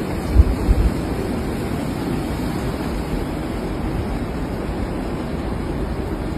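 Strong wind blowing across the microphone in a steady rush, with a couple of deep buffeting thumps just under a second in.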